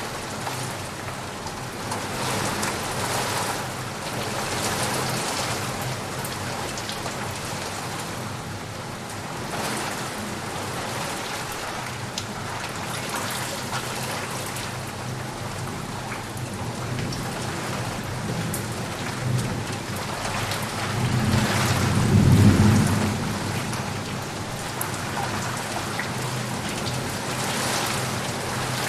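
Heavy rain falling steadily, with a low rumble of thunder swelling about three-quarters of the way through.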